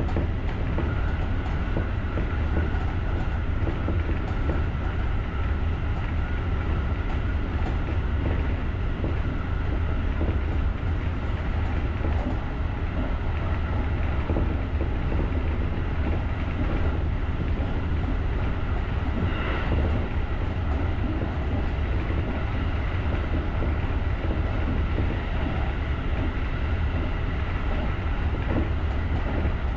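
JR rapid electric commuter train running along the track with a steady low rumble of wheels on rail. A faint high whine runs through the first half, and there is a brief higher-pitched sound about twenty seconds in.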